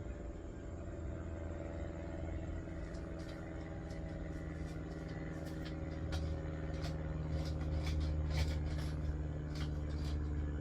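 A steady low mechanical hum, like a motor running, that grows slightly louder. A series of sharp clicks and taps starts about three seconds in, typical of metal parts and tools being handled.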